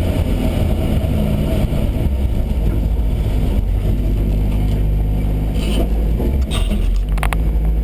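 BMW E30 318is race car's 1.8-litre four-cylinder engine running steadily at low revs, heard inside the stripped, roll-caged cabin. A few sharp clicks come near the end.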